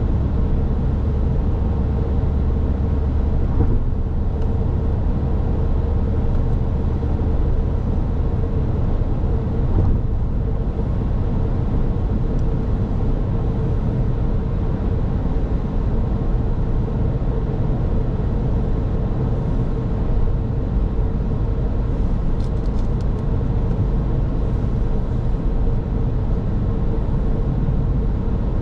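Car being driven at a steady pace: an even low rumble of road and engine noise with a faint steady hum. Two light bumps come through, about four seconds in and again near ten seconds.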